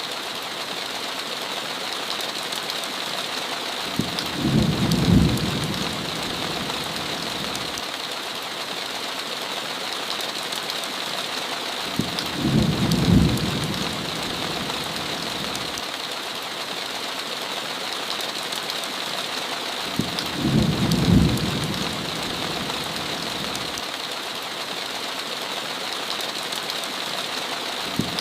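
Steady heavy rain with a low rumble of thunder three times, evenly spaced about eight seconds apart.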